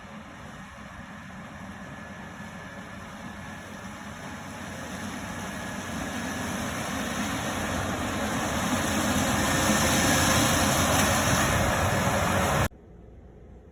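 Fendt Ideal 9 combine harvester running in a corn harvest, growing steadily louder over about ten seconds, then cut off suddenly near the end, leaving a much quieter hum.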